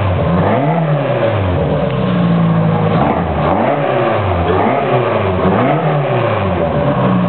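Car engine on a run stand being revved up and down several times in quick succession, its pitch rising and falling with each blip of the throttle.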